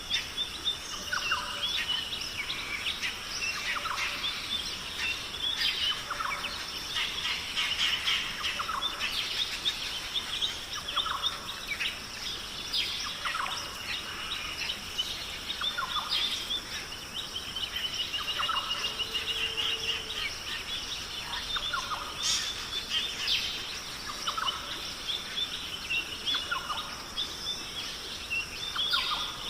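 Several wild birds chirping and calling, with many short high notes overlapping and a shorter lower note repeating every second or two, over a steady high hiss.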